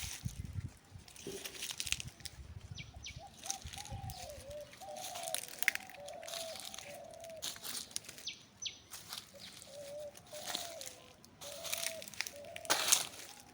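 Outdoor ambience with a bird calling in a long run of short warbling notes, a few high quick chirps, and scattered brief noisy bursts.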